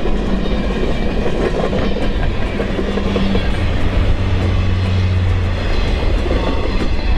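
A train running along the rails, its wheels clattering over the rail joints in a steady rumble. A low steady hum swells for a second or so past the middle.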